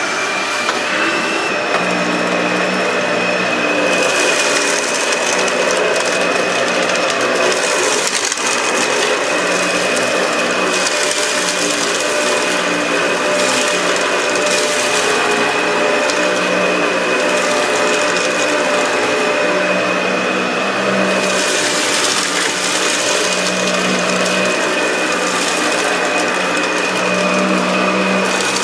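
Dyson DC65 upright vacuum cleaner running on carpet, its motor spinning up to a steady high whine in the first second. The sound swells and eases every second or two as it is worked over the carpet, sucking up potting soil.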